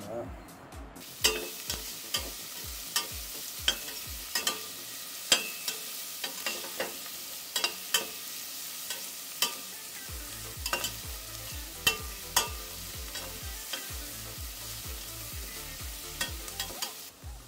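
Chopped garlic and green chillies sizzling in hot oil in a steel pan, starting about a second in, while a metal spatula stirs them with a sharp clink or scrape against the pan once or twice a second.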